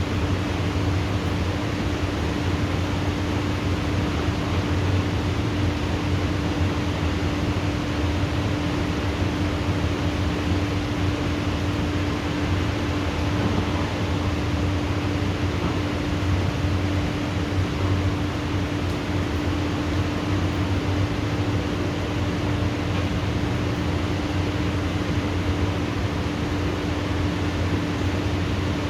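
Steady rain hiss during a thunderstorm, with a constant low mechanical hum running underneath.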